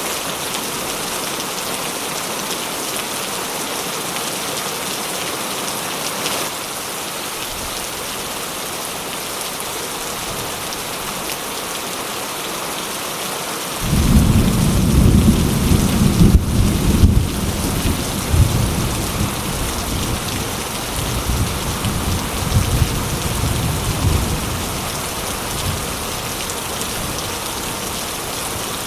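Steady rain falling, with a roll of thunder that starts suddenly about halfway through, rumbles low and unevenly for around ten seconds, then fades back into the rain.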